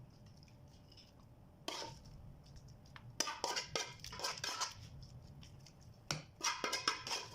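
A spoon scraping and clinking against a cooking pot in scattered bursts, as cooked chicken is spooned out onto a layer of rice.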